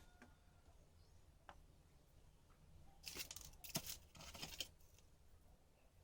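Handling noise from bench work: a quick run of short rasping, scraping strokes from about three seconds in, after a couple of faint clicks.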